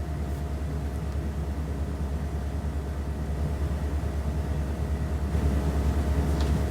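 Steady low rumble with a fast, even flutter, rising slightly in level near the end.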